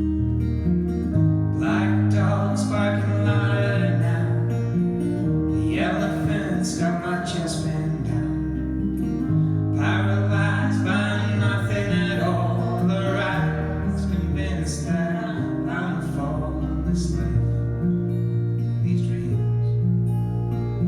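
A band plays a song live: acoustic guitar strumming over sustained low bass notes, with a melodic line coming in short phrases on top and no sung words.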